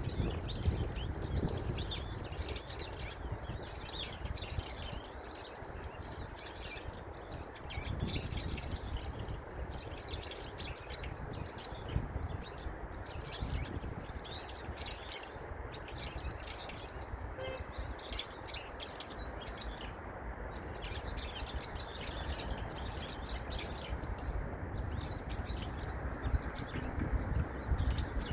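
Small songbirds chirping and twittering in a busy stream of short, high calls that pause briefly twice in the second half, over a low steady rumble.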